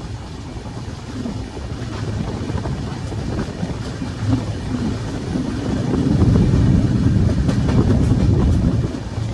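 Train running along the track: a steady low rumble that grows louder about six seconds in, with a few sharp clacks near the end.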